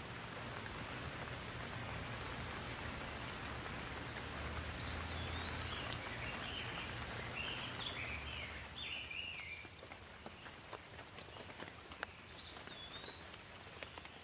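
Steady rain falling, louder for the first nine seconds or so and then easing, with a few sharp drips in the second half. A bird calls in a run of short rising-and-falling chirps from about four to nine seconds in, and once more near the end.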